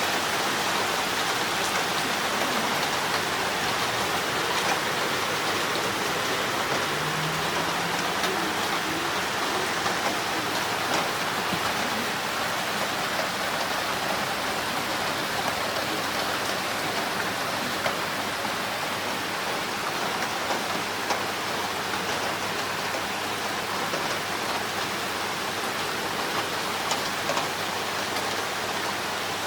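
Heavy rain with water running down a drainpipe: a steady hiss of rain and running water, with scattered drip ticks.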